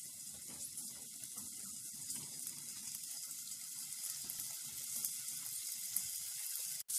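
Diced potatoes frying in olive oil in a stainless steel pan: a steady sizzle, with soft scraping as a silicone spatula stirs them. The sound cuts out abruptly for an instant near the end.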